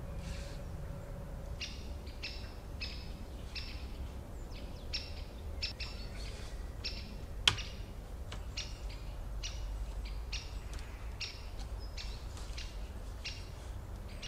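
Small songbird calling with short, clear chirps, irregularly about one or two a second, each note holding two pitches at once. A single sharp click about seven and a half seconds in is the loudest sound.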